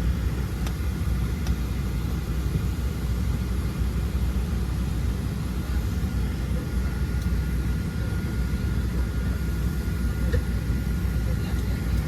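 Steady low rumble of a Boeing 737-700's cabin air system with the aircraft at the gate and engines not yet started, with a faint steady whine and a few faint clicks.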